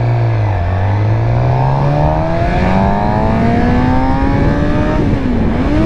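2019 Suzuki GSX-R600's inline-four engine pulling under acceleration, its pitch climbing steadily for about five seconds, then dipping briefly and picking up again near the end.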